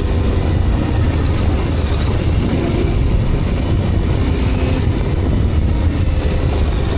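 Dual-sport motorcycle engine running steadily at speed, with wind rushing over the microphone.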